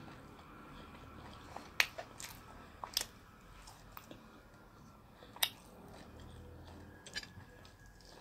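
Close-up eating sounds of a person chewing chicken picked apart by hand: mouth smacks and sharp wet clicks, a handful of them between about two and five and a half seconds in, with another near the end.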